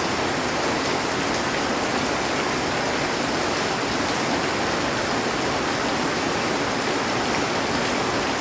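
Heavy rain falling steadily on a metal roof, an even, unbroken hiss with no separate drops or thunder standing out.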